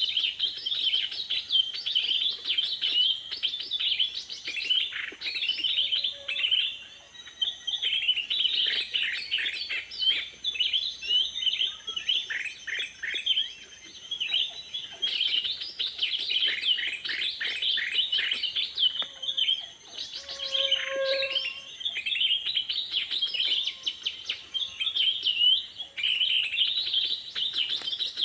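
Small birds chirping and twittering densely, many quick high notes overlapping with barely a break, easing briefly twice before picking up again.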